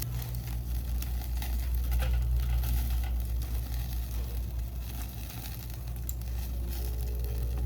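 Food sizzling as it cooks, with scattered small crackles over a steady low hum.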